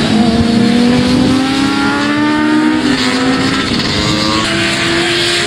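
Several racing motorcycles' engines accelerating past. Their pitch climbs steadily, breaks off a little before the middle, then climbs again.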